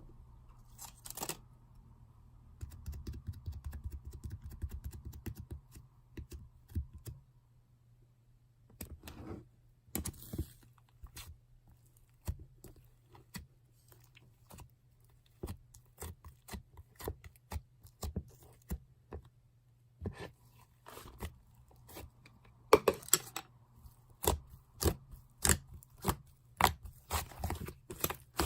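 Slime being squeezed and stretched by hand, sticky and crackling. A dense crackle runs from about three to seven seconds in, followed by many sharp clicks and pops that come thicker near the end.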